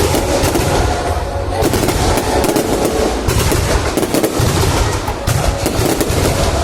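Fireworks display, a rapid, continuous string of bangs and crackles from shells bursting overhead, with low booms underneath.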